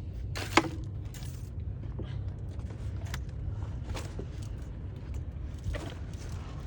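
Scattered clicks and knocks of plumbers working on sewer pipe in a trench, over a steady low hum. The sharpest knock comes about half a second in.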